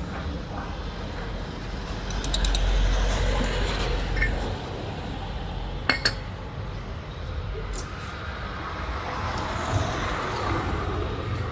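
Small metal parts and tools clinking, with a few sharp clicks, over a low rumble of vehicle traffic that swells for a couple of seconds about a third of the way in.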